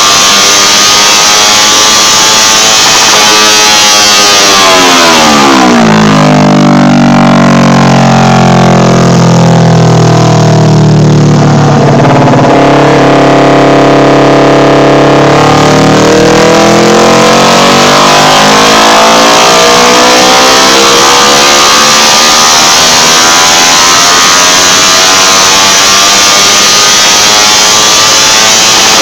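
Kawasaki Ninja 250 parallel-twin engine with a Totsubo aftermarket exhaust, running loud on a dyno: high revs falling to idle about five seconds in, idling for about ten seconds, then climbing steadily back up to high revs in a long dyno pull.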